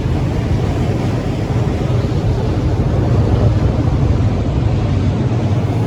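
Ferry under way: a steady low engine rumble with a constant rushing noise of wind and water over it.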